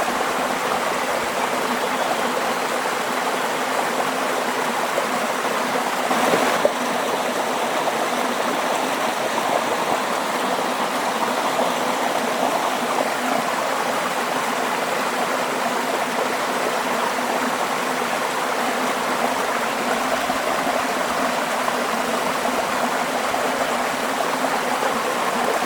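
Waterfall: water falling and splashing in a steady rush, with one brief louder splash about six and a half seconds in.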